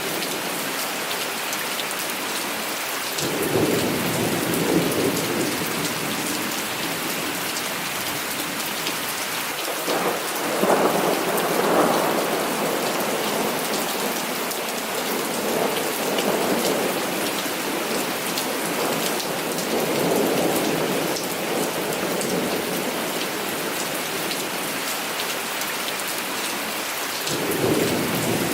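Heavy rain falling steadily, with repeated rolls of thunder rumbling over it, the loudest about a third of the way in.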